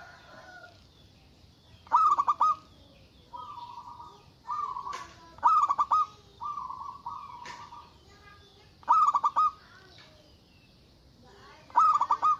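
Zebra dove (perkutut) singing: a rapid run of notes repeats about every three and a half seconds, with softer drawn-out coos between the runs.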